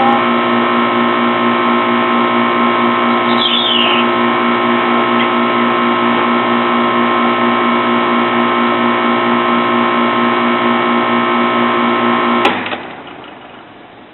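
Goodman heat pump running with a steady electrical hum, then switching off on its own with a click about twelve and a half seconds in, the hum dying away over a second or so. The shutdown comes unprompted, without anyone turning the unit off.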